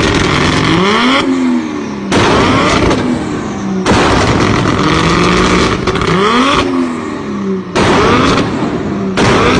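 Toyota Supra engine held on its 2-step launch limiter, the exhaust letting out a rapid, loud stream of pops and bangs in about five bursts. Between bursts the revs drop and climb again.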